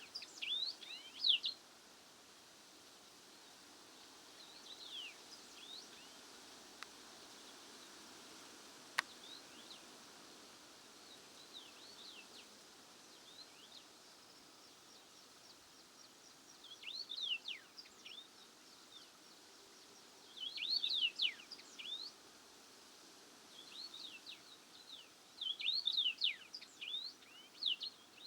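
A songbird singing short phrases of quick, high, sweeping notes every few seconds over a faint steady hiss of open-air background. There is a single sharp click about nine seconds in.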